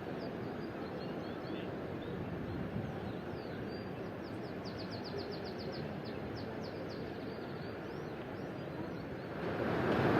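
Small songbird singing a quick trill of about a dozen high chirps around the middle, over a steady outdoor background hiss. Near the end a louder rushing noise rises.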